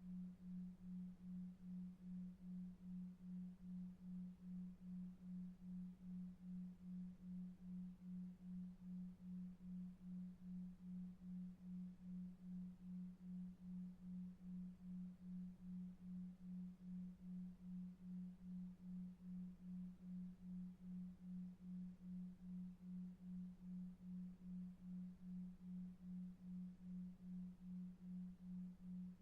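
Low pure tone near 200 Hz pulsing evenly about two and a half times a second: a 2.5 Hz delta-wave sleep tone, with faint low brown noise beneath it.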